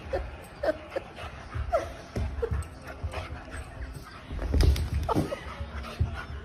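A dog whimpering in a string of short, high cries, some rising and some falling, with low thumps in between.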